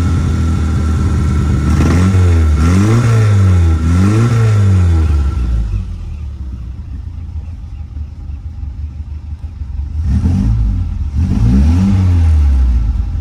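1960 Austin-Healey Sprite's 948 cc A-series four-cylinder engine idling and blipped on the throttle. It revs twice in quick succession a couple of seconds in, drops back to a quieter idle, then revs twice more near the end.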